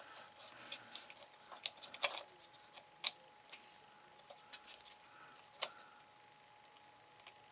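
Scattered light clicks and taps from handling small card model parts and tools on a work surface, over a faint steady hum.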